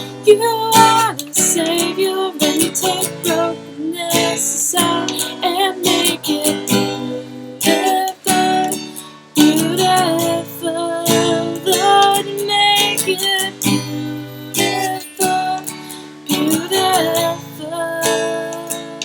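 A woman singing a slow song over a strummed acoustic guitar.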